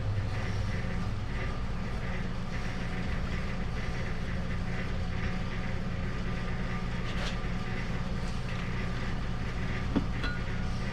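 Steady low hum of shop machinery running, with a couple of faint light clicks near the end.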